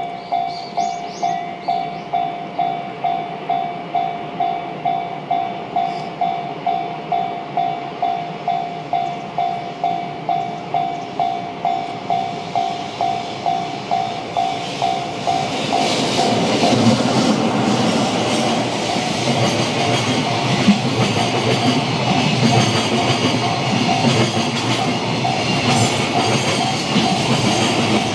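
Japanese level-crossing warning bell ringing in a steady beat of about two strikes a second. About 15 seconds in, a freight train hauled by an EF65 electric locomotive reaches the crossing and passes with a loud rush of wheel and rail noise and rapid clicking over the rail joints, the bell still faintly ringing beneath.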